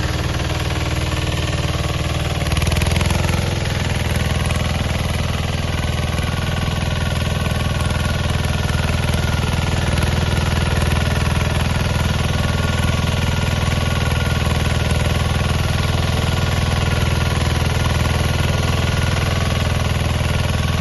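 Tractor's diesel engine running steadily, briefly louder about three seconds in.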